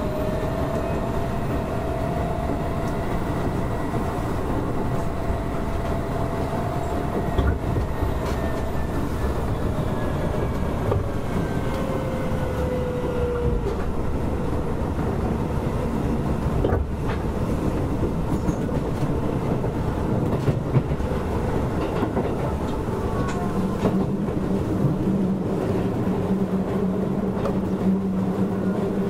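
Keisei 3400 series electric train running, heard from inside the carriage: a steady rumble of wheels on rail with a few sharp rail-joint clicks and faint motor tones sliding in pitch. A steady low hum comes in for the last several seconds.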